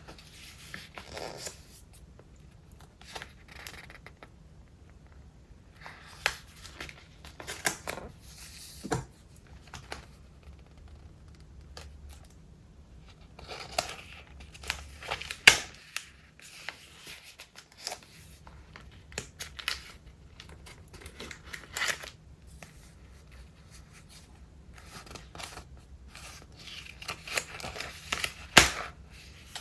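Pages of a thick, collage-filled Traveler's Notebook being handled and turned: paper rustling and crinkling in short bursts, with a couple of sharper crisp snaps about halfway through and near the end.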